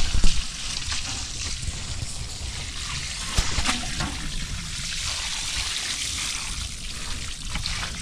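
Water trickling and pouring steadily onto a freshly sown seedbed as it is watered, with a few light knocks.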